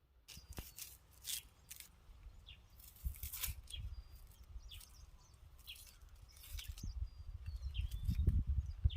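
Irregular scraping and rustling strokes from hands working at something close by, with a few faint bird chirps in the background.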